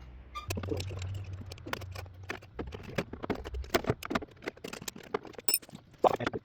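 Irregular light clicks and knocks from hands working the tractor's switch and wiring, over a low hum that fades out about halfway.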